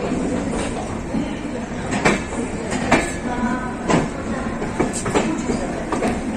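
Indian Railways Rajdhani Express coach running through station trackwork, heard from the open coach door: a steady rolling rumble with sharp wheel clacks over rail joints about once a second.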